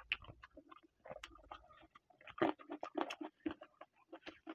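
Close-miked chewing of a mouthful of chicken curry and rice: a quick, irregular run of wet smacks and clicks from the lips and mouth.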